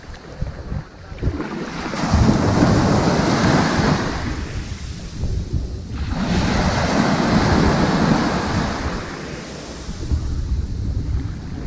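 Ocean waves washing onto a sandy beach: two surges one after the other, each building to a hiss and falling back over a few seconds, with another starting near the end.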